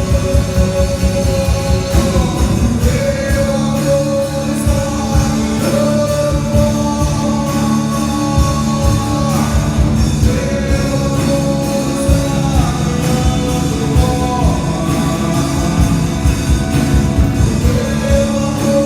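A live worship band playing a rock-style song: singing held on long notes with glides between pitches, over guitar and a steady drum beat.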